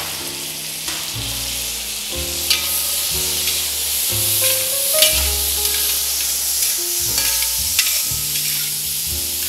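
Long-grain basmati rice and prawns frying and sizzling in a copper pan, stirred and scraped with a metal slotted spatula.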